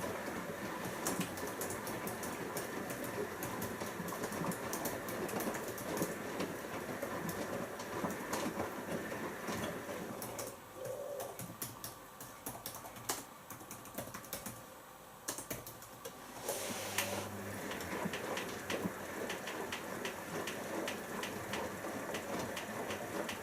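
Siemens iQ front-loading washing machine tumbling laundry in water during its first rinse: a steady sloshing churn with frequent small clicks and knocks. The sound eases for several seconds in the middle as the drum pauses, then the tumbling picks up again.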